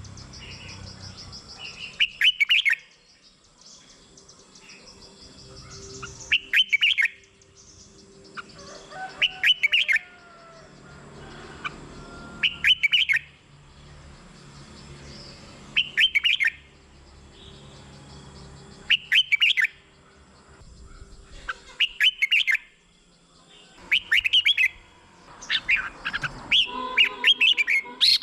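Red-whiskered bulbul singing: short, loud, chirpy phrases about every three seconds, coming closer together near the end.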